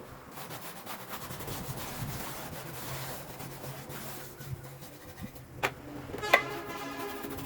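Steady scraping and rubbing on a hard surface. Near the end come two sharp knocks; the second is the loudest and is followed by a short ringing tone.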